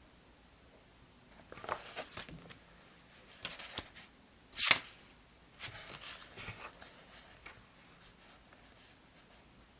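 Paper and stationery being handled on a desk: scattered rustles and light clicks, with one sharp, louder sound about halfway through.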